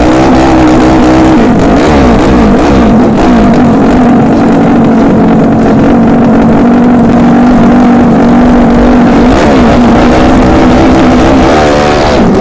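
Racing motorcycle engines running loudly at high revs, the pitch wavering up and down with throttle blips.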